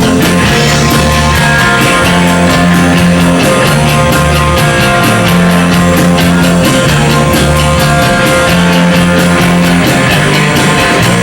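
A rock band playing live: loud, distorted electric guitars over bass and a steady drum beat.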